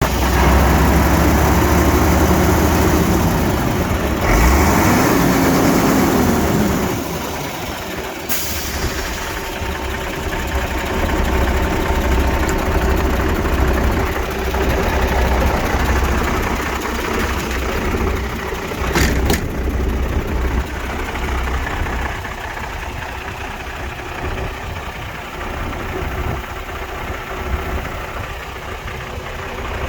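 MAN 26.362 tipper truck's diesel engine running, louder for the first several seconds with a brief rise and fall in pitch around five seconds in, then settling to a steady idle. Two short sharp clicks, about 8 and 19 seconds in.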